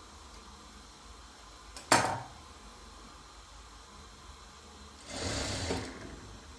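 A single sharp knock about two seconds in, followed near the end by a noisy sound of about a second, like something being handled or moved.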